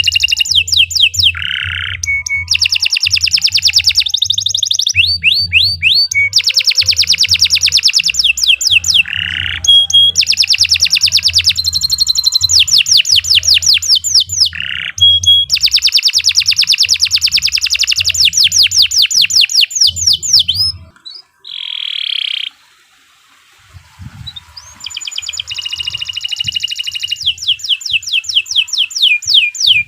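Domestic canary singing long, fast trills and rolls, with a break of about three seconds roughly two-thirds of the way through before the song starts again.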